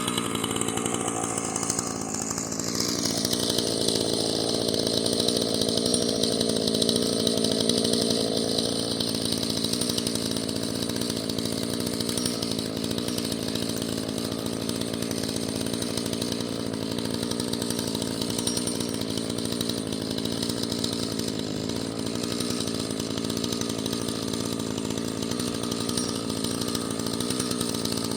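Husqvarna two-stroke chainsaw running hard, as when cutting through wood. Its pitch rises about two seconds in, it is loudest for several seconds after that, then it runs on steadily.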